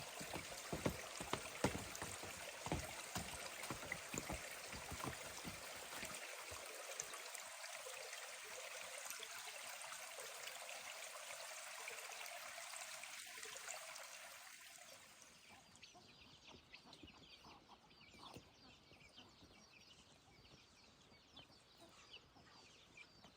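Water running or pouring, with many small splashes and crackles, for about fifteen seconds. It then fades to a quieter background with chickens clucking.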